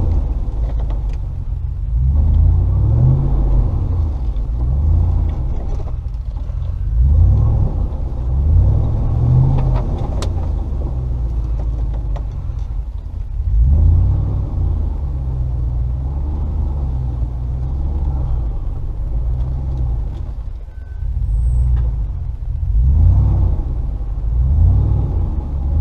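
Range Rover P38's 4.0 V8 engine driving at low speed, the engine note rising and falling every few seconds as the revs change, with a few light knocks.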